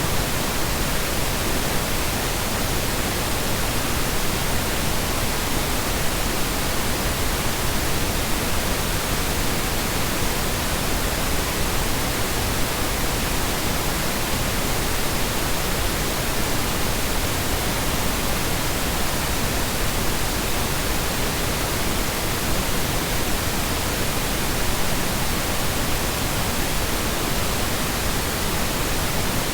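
Generated Brownian noise: a steady, unbroken rushing noise that does not change in level.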